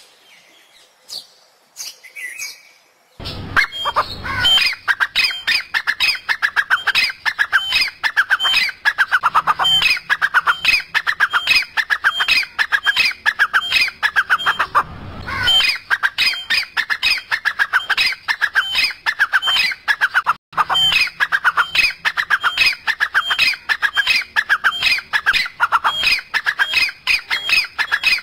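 Bird squawking. A few faint chirps, then from about three seconds in a loud, rapid run of harsh calls, several a second, with a short break about halfway.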